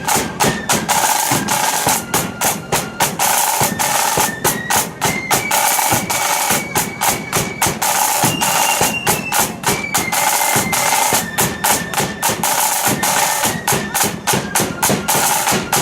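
Blood-and-thunder marching flute band playing a tune: flutes carry a melody of held high notes over heavy, rapid drumming on snare drums and a bass drum.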